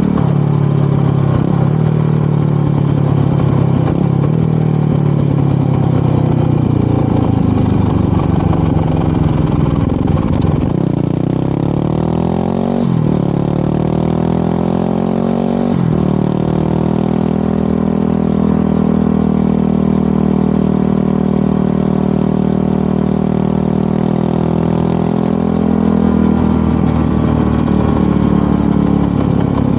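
Motorcycle engine running under way while riding: the engine note falls, changes sharply twice about thirteen and sixteen seconds in, as with gear changes, then holds steady at cruising speed.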